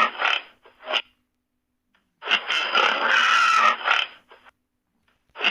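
An animal's rasping call about a second and a half long, heard twice in nearly the same form with a pause of silence between, each time starting and stopping abruptly.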